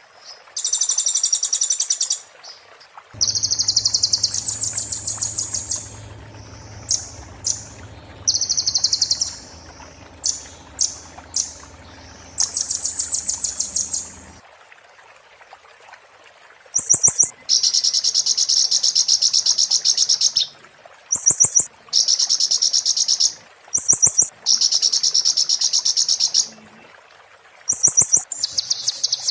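Konin bird singing in bursts of very rapid, high trills, each lasting one to two seconds with short pauses between. This is the fast, sharp 'muntah beling' song style used to tutor other songbirds.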